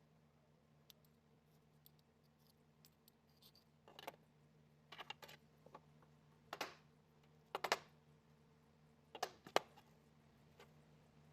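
Light clicks and knocks of small hard objects being handled, scattered and irregular with a few sharper knocks in the second half, over a faint steady hum.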